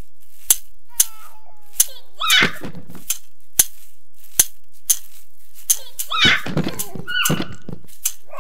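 Cartoon sound effects of toddlers playing: sharp clicks and knocks about once or twice a second, with short high-pitched children's squeals and giggles at a few points.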